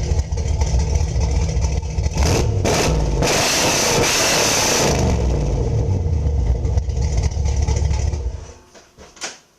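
1988 Camaro's 305 small-block V8 running through true dual exhaust into Flowmaster 10 series mufflers, in a garage. It is revved once, loudest from about three to five seconds in, then settles and is shut off about eight and a half seconds in. A short knock follows near the end.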